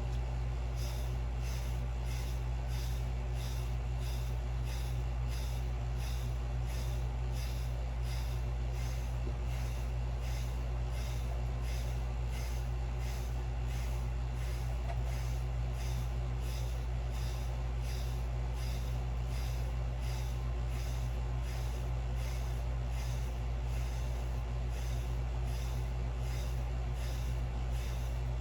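A hair brush stroking through short 360-wave hair in a steady rhythm, about three strokes every two seconds, over a steady low hum.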